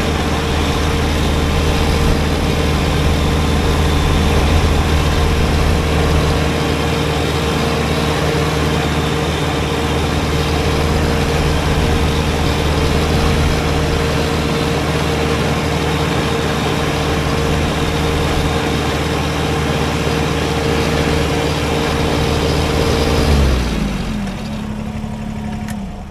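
Kubota BX23S compact tractor's diesel engine running steadily with its front-mounted snowblower. About 23 seconds in, the engine's pitch drops and it gets a little quieter as it slows.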